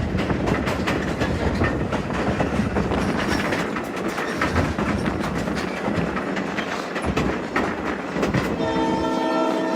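A train rolling along the track, a steady rumble with clicking from the wheels over the rails; near the end a locomotive horn sounds a chord of several notes and is held.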